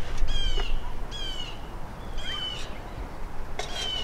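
A small bird chirping four times, about a second apart: short, sharp, high chirps that drop quickly in pitch.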